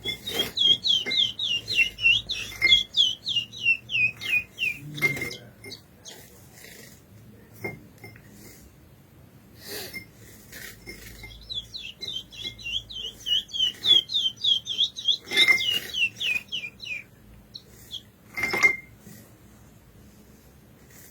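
Curió (lesser seed finch) singing two long phrases of quick, downward-slurred whistled notes, with a pause between them. Scattered sharp clicks and taps fall between and after the phrases.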